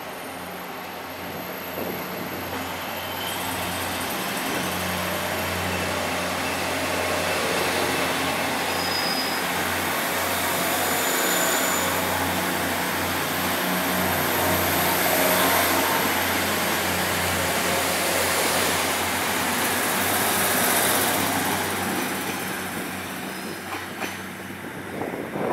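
A train passing by: the noise of the train builds for several seconds, stays loud with a steady low hum under it, then fades away near the end.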